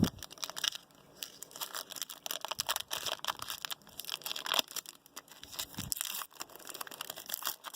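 Trading card packs being torn open by hand, the wrappers crinkling and tearing in quick irregular crackles.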